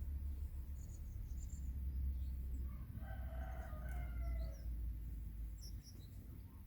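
A rooster crowing once, a call of about a second and a half in the middle that drops slightly at its end, with small birds chirping briefly before and after, over a steady low rumble.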